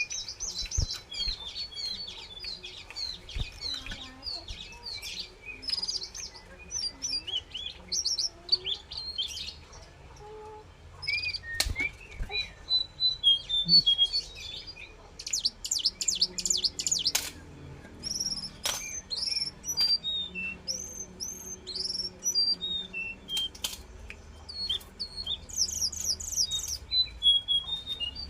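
Jongkangan songbird singing a varied run of short chirps and falling whistled notes, broken by fast chattering trills, with a few sharp clicks among them.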